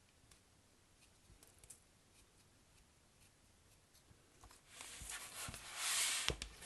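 Soap packaging being handled as soap is unwrapped: a few faint light taps, then about two seconds of loud rustling and crinkling with sharp clicks, starting near the end.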